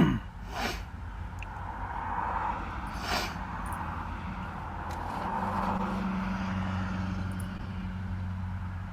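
Motor vehicle engine running steadily: a low, even hum with a light hiss of traffic or road noise and a couple of faint clicks.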